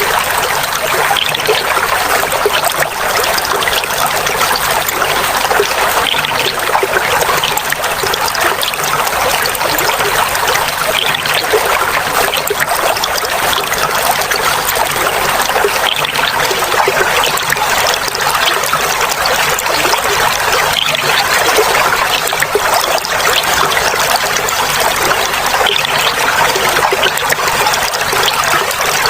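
Clear flowing water trickling and babbling, a steady splashing rush with no breaks.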